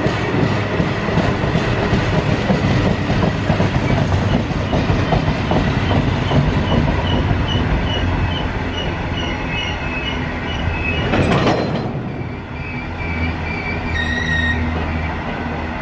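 Freight wagons of a steel train rolling past, with wheels clattering over the rail joints and a repeating high wheel squeal. About 11 seconds in there is a brief louder rush, after which the clatter gives way to a steadier low rumble.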